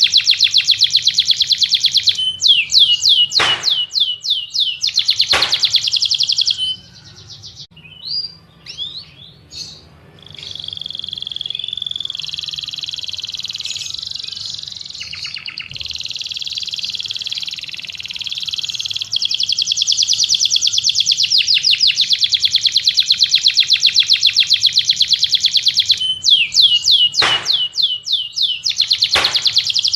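A songbird singing in long, very fast trills and chattering phrases, high-pitched and loud. It breaks off about seven seconds in for a few scattered separate chirps, then resumes with steady trilling. The opening phrase repeats near the end.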